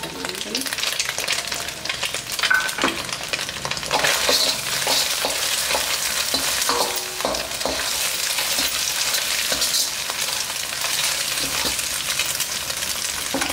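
Eggs, garlic and ginger sizzling and crackling in hot oil in a large thin steel kadai on high flame. A metal ladle stirs the mix, scraping and clinking against the pan.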